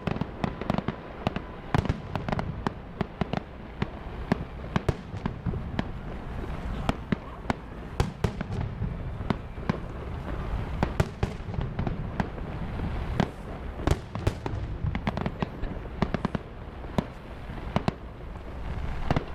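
Fireworks display: a rapid, irregular barrage of sharp cracks and bangs, several a second, over a continuous low rumble of shells bursting.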